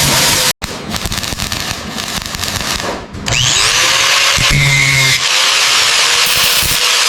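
Workshop power-tool noise. After a brief cut about half a second in, there is a rattly grinding run, then a short dip and a louder, steady hissing run with faint whining pitch glides.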